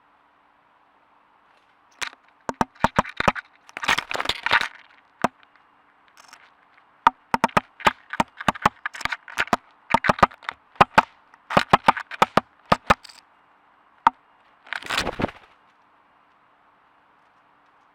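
Woodpecker hammering its bill on a trail camera's casing: loud, sharp knocks in irregular runs and clusters, then one lone knock and a short scratchy scrape near the end.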